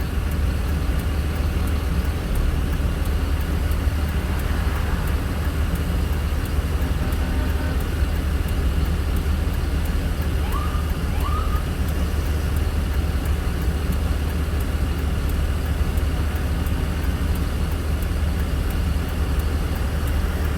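Steady low rumbling noise with an even hiss over it, and two short rising chirps a little past the middle.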